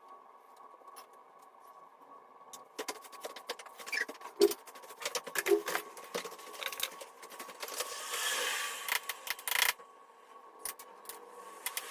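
Handling noise: a run of irregular clicks, taps and scrapes, with a longer scraping rush about eight seconds in, over a faint steady hum.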